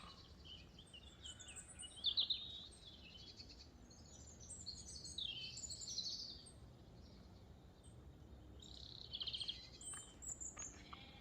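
Songbirds singing: a short bright phrase about two seconds in, a longer run of varied warbling notes in the middle, and more quick trills near the end.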